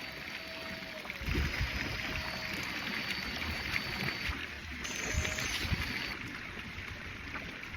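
Wind buffeting the microphone: a steady hiss with irregular low rumbling gusts, strongest about a second in and again around five seconds in.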